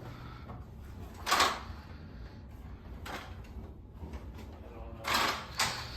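Harbor Breeze Centreville 42-inch ceiling fan running on its low speed with a steady low hum. A few short whooshing noises break in, the loudest about a second in and two more near the end.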